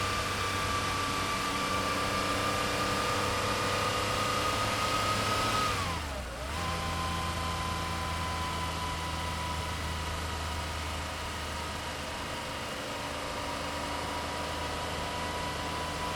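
Air-cooled 3.2-litre flat-six of a 1976 Porsche 911S running steadily. About six seconds in its note drops in pitch with a brief dip in loudness, then holds steady at the lower pitch.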